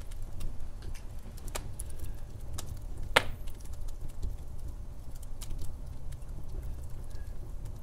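Log fire crackling: scattered sharp pops and snaps over a low steady rumble of the flames, with one loud pop about three seconds in.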